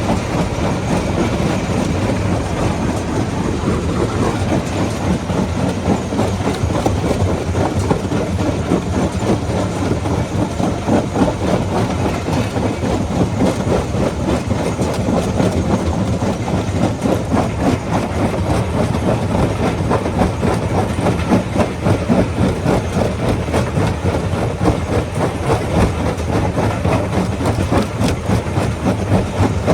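Rock crusher running and breaking stone: a steady low machine hum under a continuous dense clatter and knocking of rocks.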